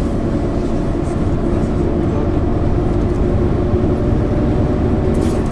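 MAN ÜL 353 bus running steadily while on the move, heard from inside the bus: an even engine drone at a constant pitch over low road rumble.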